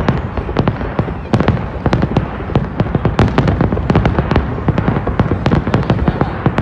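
Aerial fireworks shells bursting in rapid succession: several loud bangs a second over a continuous low rumble of booms.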